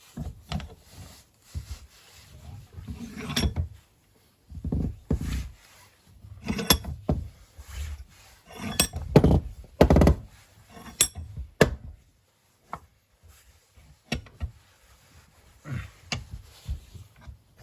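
Metal parts of a lawnmower's blade clutch being handled and fitted together: irregular clunks and rubbing, with several sharp metallic clicks or taps that ring briefly, mostly through the middle of the stretch.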